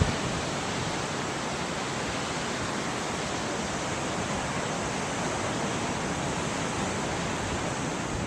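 Steady, even rushing noise of ocean surf.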